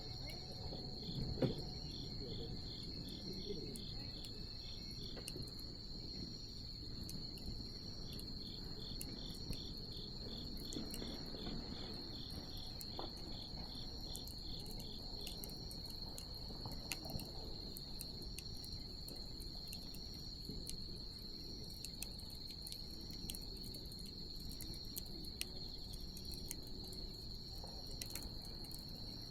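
Wood bonfire crackling with scattered small pops, one louder pop about a second and a half in, over a low steady hiss. A steady high insect trill runs throughout, and a second insect chirps in rapid even pulses for two stretches.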